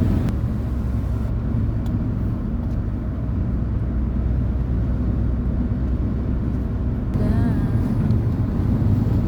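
Steady low rumble of a car on the move, road and engine noise inside the cabin, with faint voices near the end.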